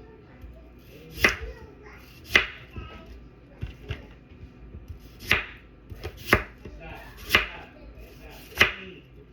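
Knife chopping on a cutting board: about six sharp strokes, irregular and roughly a second apart, with lighter knocks between them.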